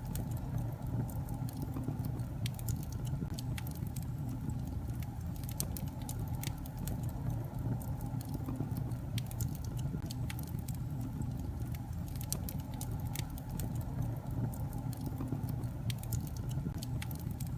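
Wood fire burning in a fireplace: a steady low rumble of flame with frequent sharp crackles and pops from the logs.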